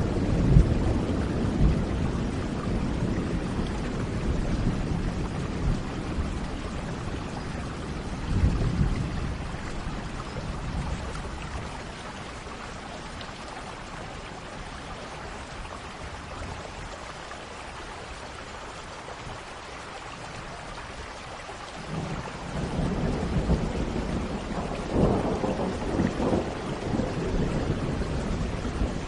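Steady rain with rolling thunder: a rumble fading over the first few seconds, another about eight seconds in, then a lull with only the rain before thunder rumbles and cracks again over the last seven seconds.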